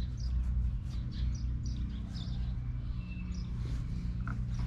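Small birds chirping in short, repeated high calls over a steady low hum.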